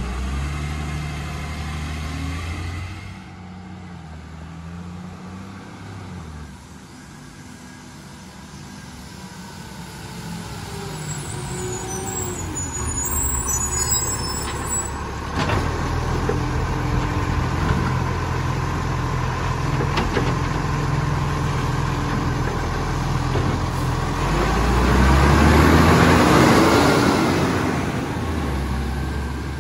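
Garbage truck's diesel engine running, dropping back for a few seconds and then building up again, with a knock about halfway through and a loud surge about 26 seconds in.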